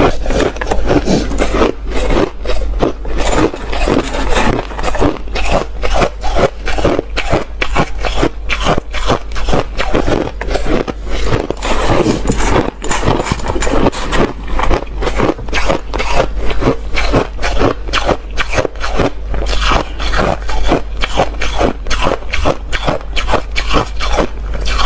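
Hard ice being chewed close to the microphone: rapid, repeated crunches, several a second, without a break.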